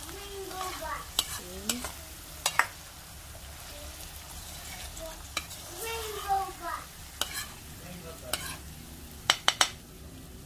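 Diced tofu sizzling as it fries in a pan with oil and teriyaki sauce, stirred with a metal spoon. The spoon clicks and scrapes against the pan several times, with two quick clicks close together near the end.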